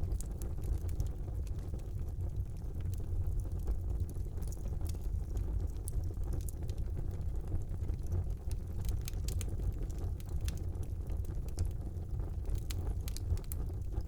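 Wood fire burning in a fireplace: a steady low rumble of the flames with frequent sharp crackles and pops of the burning logs.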